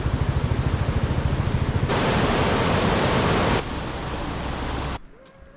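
Loud, steady rushing-water noise. It grows louder about two seconds in, eases a little past three and a half seconds, and cuts off sharply about five seconds in.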